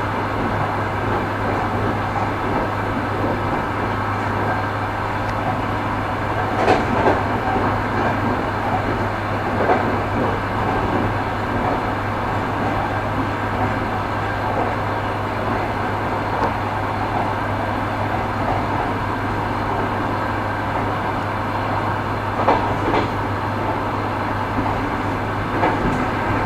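Railway car running along the track: a steady rolling rumble with a low hum. A few separate knocks of the wheels sound as they pass over rail joints.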